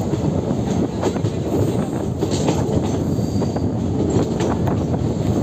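Passenger train coaches running round a curve, heard from an open doorway: a steady rumble of steel wheels on the rails, with a few sharp clicks over rail joints and points and a light wheel squeal.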